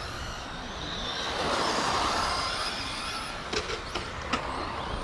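Radio-controlled stadium trucks racing, their motors whining and rising and falling in pitch, with a few sharp clacks between about three and a half and four and a half seconds in.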